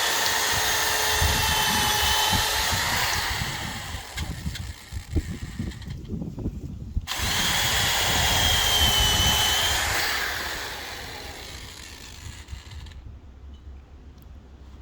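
Power drill pre-drilling nail holes in deck boards: its motor whines in two runs, the first stopping about three seconds in and the second running from about seven to ten seconds in, with quieter working noise in between and after.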